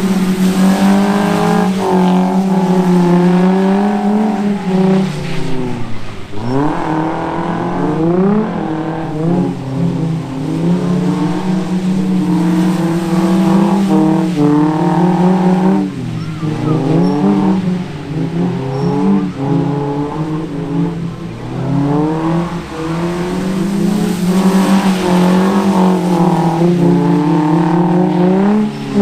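Drift cars' engines revving hard through a drift run. The engine note holds high for long stretches, then drops and climbs back sharply three times.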